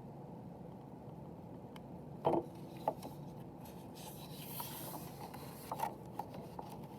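A picture book being handled: soft paper rustling as a page is turned, with a few light taps or knocks, over a steady low room hum.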